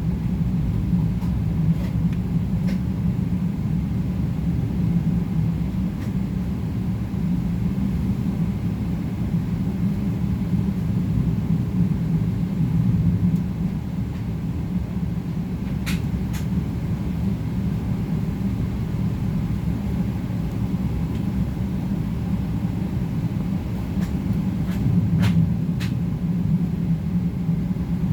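Steady low rumble inside the cabin of a Boeing 777-300ER airliner as it moves for departure, with a few faint clicks about halfway and again near the end.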